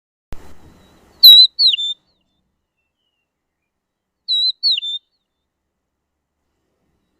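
A bird's short whistled phrase, a few clear notes twisting around one pitch and then dropping, given twice about three seconds apart. A brief thump comes just before the first phrase.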